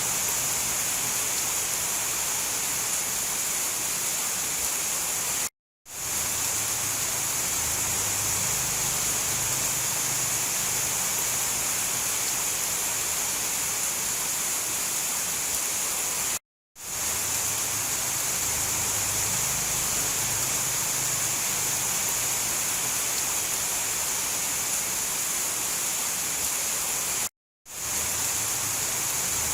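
Steady, even hiss of heavy rain. It cuts out to silence for a moment three times, about eleven seconds apart, and each time fades quickly back in, as a looped recording does.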